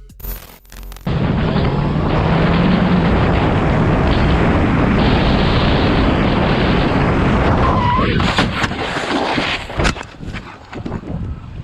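Loud steady wind rush on a riding motorcyclist's camera microphone. About eight seconds in there is a short squeal and a cluster of sharp knocks, after which the rushing falls away.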